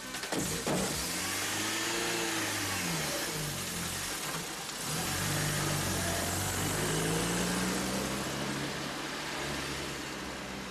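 Car engine revving up and down, then running steadily as the car pulls away and fades off. A few knocks come in the first second.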